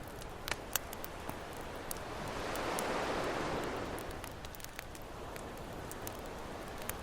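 Campfire crackling with scattered sharp pops, over a steady wash of ocean waves; one wave swells up and breaks about three seconds in, then fades.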